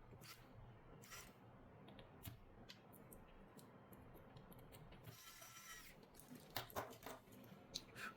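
Faint clicks and taps of small repair tools on a Samsung Galaxy Z Flip 5 phone, with a brief scrape about five seconds in and a few sharper clicks near the end.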